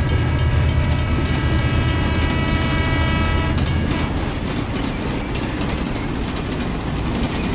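Heavy vehicle engine running steadily with a pulsing low rumble, the mini tractor's dubbed engine sound as it sets off. After about three and a half seconds it turns rougher and noisier.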